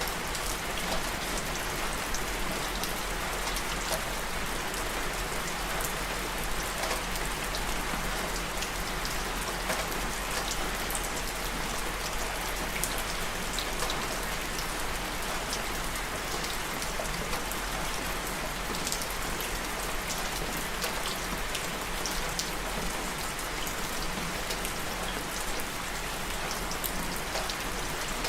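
Steady rain falling, a dense even hiss dotted with many small drop ticks, with a constant low rumble underneath.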